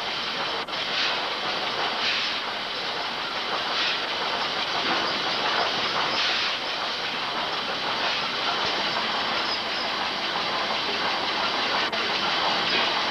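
Stationary steam machinery running: a steady hiss of steam and mechanical clatter, with louder puffs of steam every second or two.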